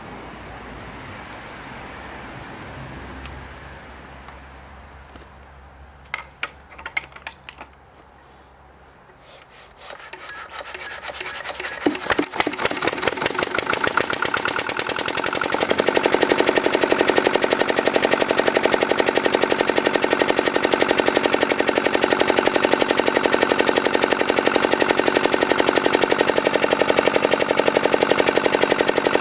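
Lister SW1 water-cooled single-cylinder diesel being started: a few clicks, then a rising whir as it is cranked, and about twelve seconds in it fires and settles into a loud, fast, even run of rapid knocks. It runs fast because its governor springs are too heavy.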